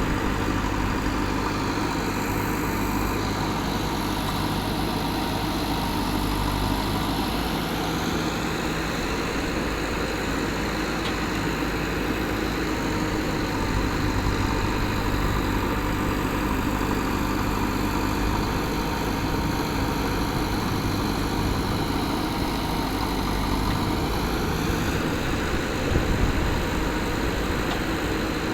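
JCB backhoe loader's diesel engine running steadily, its pitch sagging and recovering a few times as it works, with a brief knock near the end.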